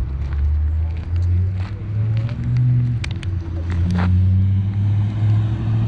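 A car engine running, its low drone stepping up and down in pitch several times as the revs change, with light scattered clicks over it.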